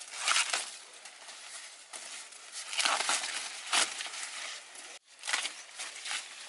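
Irregular rustling and crinkling handling noise, with several louder bursts scattered through it.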